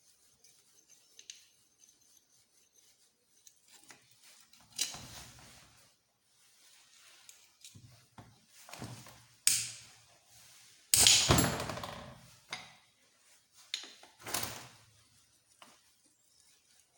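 Metal tools and engine parts being handled: a series of separate knocks and clunks. The loudest comes about eleven seconds in and rings on briefly as it dies away.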